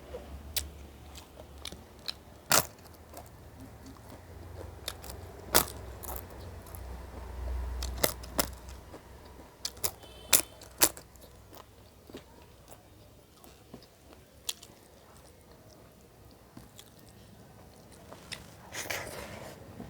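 A person eating chicken curry with sprouted chickpeas close to the microphone: chewing and crunching, with sharp clicks scattered through it, a few much louder than the rest, and a short rustling burst near the end.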